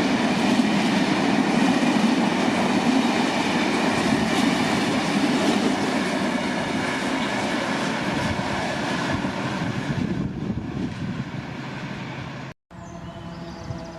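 A freight train running past, its wagons' wheels loud on the rails, the noise fading away after about ten seconds. Near the end the sound drops out abruptly and comes back quieter, with a steady hum.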